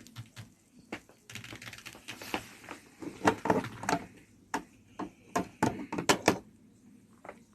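A quick, irregular run of sharp clicks and taps, like hard objects being handled, with a light rustle between them. The clicks are densest and loudest from about three to six and a half seconds in.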